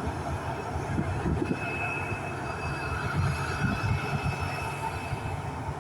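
Jet aircraft engines running on the ground: a steady rumble with a thin, steady high whine that comes in about a second and a half in.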